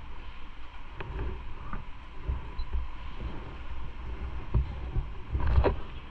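Low engine-like rumble with wind noise on the microphone, crossed by a few short knocks and clicks, the loudest cluster about five and a half seconds in.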